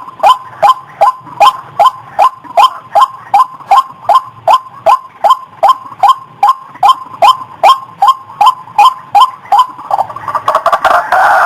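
White-breasted waterhen (ruak-ruak) call played as a bird-trapping lure: a long, monotonous run of short, downward-sliding notes, about two and a half a second. Near the end it breaks into faster, denser chattering.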